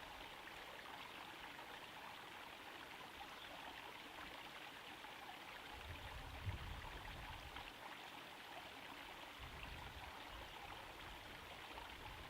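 Small garden pond waterfall trickling steadily into the pond water. A few low rumbles come and go, the strongest around six to seven seconds in.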